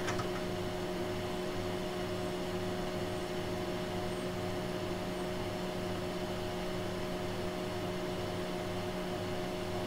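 Steady hum and fan noise from running bench test equipment: several held tones over a soft hiss, with a low throb pulsing a little under twice a second.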